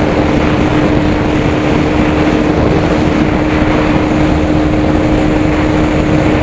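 Motorcycle engine running at a steady cruising speed, its note holding one pitch, under loud wind rush on the rider's microphone.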